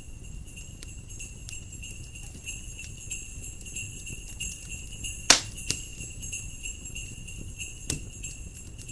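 Jingle bells ringing steadily over a crackling wood fire, with a sharp loud pop about five seconds in and another near the end. A low wind rumble runs underneath.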